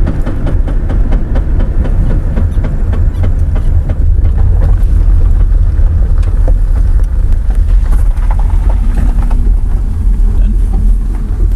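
2000 Mazda Protege with a manual gearbox driving, a steady low rumble with rapid repeated ticking clunks through it. The owner traces the noise to the clutch or transmission, not the suspension.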